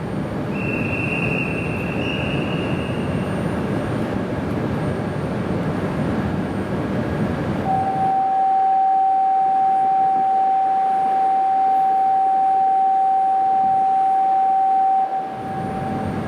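E5-series Shinkansen train accelerating away, a steady rushing rumble with a brief high whine near the start. About halfway through, a loud steady single-pitch beep starts and holds for about seven seconds while the train's rumble falls away beneath it.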